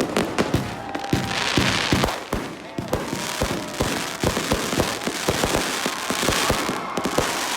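Aerial fireworks bursting in rapid, irregular succession: many sharp bangs, one after another, over a continuous crackle.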